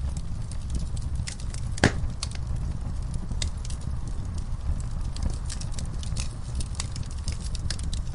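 Wood fire burning in a fireplace: irregular crackles and snaps over a steady low rumble of the flames, with one sharper pop about two seconds in.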